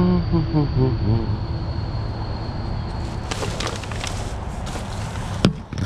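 A vehicle engine runs with a steady low buzz. In the first second there is a short, falling pitched sound. From about three seconds in comes a run of rattles and clicks, then one sharp click shortly before the end.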